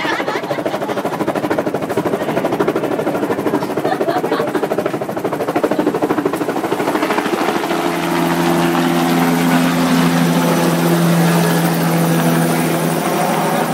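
Helicopter running close by, its rotor beating fast and steadily; about halfway through, a steady whine comes in and the sound grows louder.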